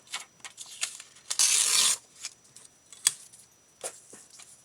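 Paper being handled on a craft table: light rustles and taps, with one loud half-second rip of paper about a second and a half in, and a couple of sharp ticks later.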